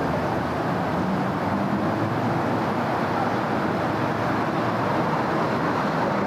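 Steady city road traffic: a continuous wash of tyre and engine noise from passing cars, with a low engine hum underneath and no single event standing out.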